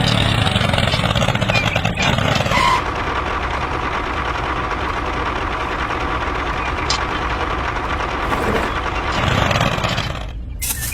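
A motor or engine running steadily, with a change in its sound about three seconds in, dying down near the end.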